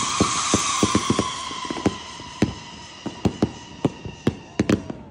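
Raccoon Pro Line whistle-to-thunder fireworks cake firing: many shells whistling at once in a shrill, overlapping whistle, with sharp bang reports several times a second. The whistling fades over the second half while the bangs go on.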